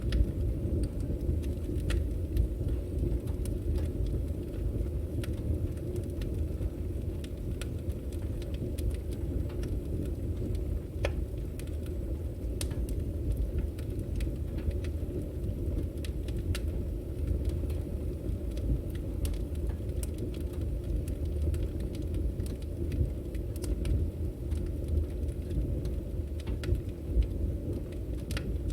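Wood fire burning: a steady low rumble of flames with scattered sharp crackles and pops from the firewood, about one a second.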